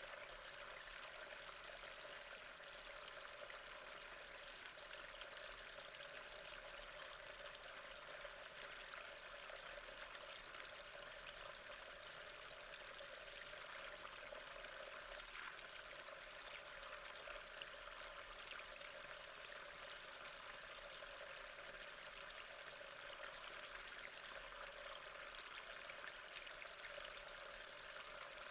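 Faint, steady running water with a few light ticks.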